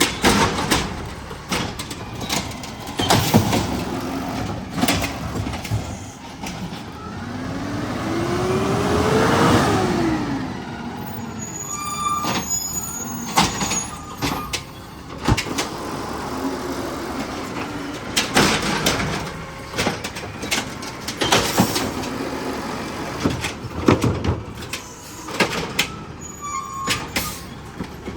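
Garbage truck working at the curb: its engine runs and revs up and back down once, while repeated metal clanks and bangs come from the bin being lifted and emptied into the hopper.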